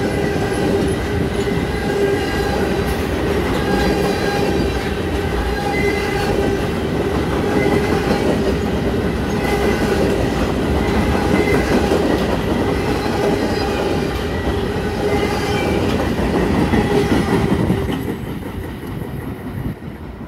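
A freight train of loaded flatcars rolls past close by, its steel wheels rumbling and clacking on the rails. A ringing wheel squeal comes and goes throughout. The sound drops off sharply near the end.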